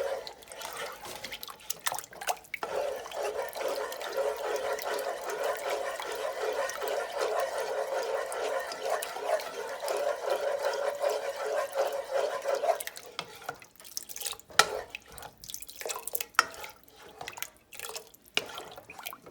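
Thin sweet-and-sour sauce, still thickening with cornstarch, being stirred in a pot: a steady swishing slosh of liquid that stops about thirteen seconds in, followed by a few scattered short knocks.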